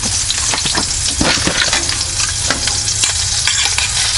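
Sausages frying in oil in a pan: a steady sizzle with frequent small crackles and pops of spattering fat.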